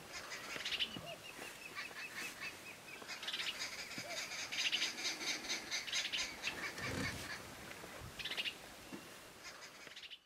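Wild birds calling and chirping, several voices overlapping in quick runs of repeated high notes, busiest in the middle.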